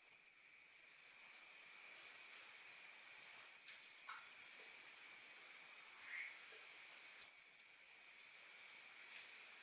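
Orange-headed thrush (anis merah) giving thin, high 'ngecis' calls that slide downward, three in all, each under a second long and a little under four seconds apart.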